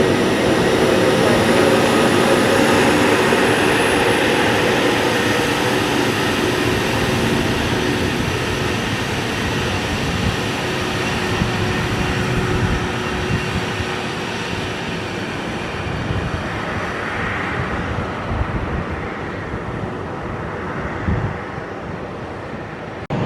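Jet airliner's engines running loud with a steady whine, then slowly fading away as the aircraft moves off.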